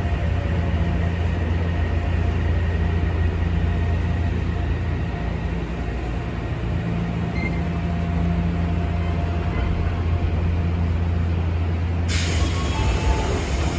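Odakyu 8000 series commuter train heard from inside the carriage as it runs slowly into the terminal platform: a steady low hum and rumble of running gear, with faint steady whine tones above. About twelve seconds in, a sudden loud hiss of compressed air as the train comes to a stop.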